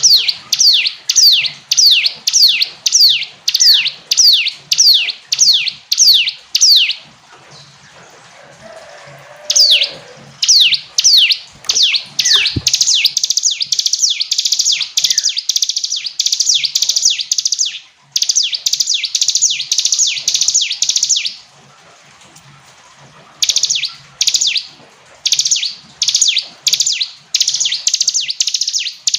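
Ciblek gunung, a prinia, singing loudly: series of sharp, high notes that each slide downward, about two a second, breaking into a rapid continuous trill of notes. Several bouts with short pauses between them.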